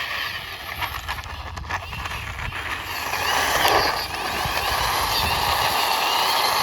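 A toy vehicle pushed by hand along a wall: a few clicks at first, then its plastic wheels roll with a steady gritty noise from about three seconds in.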